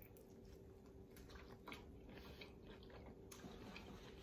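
Faint, irregular crunching and smacking of a person biting and chewing a fried chicken wing, over a faint steady hum.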